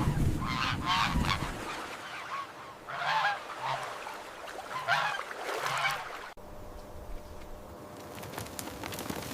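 Birds calling in three short bursts of a few calls each, about half a second, three seconds and five seconds in.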